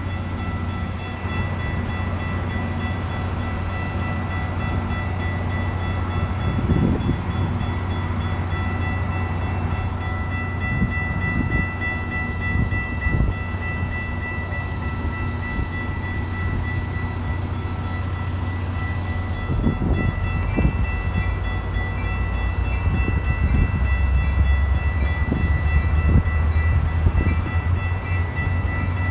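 A train running close by: a steady low rumble under several steady high tones, with scattered knocks of wheels over rail joints that grow louder in the last few seconds.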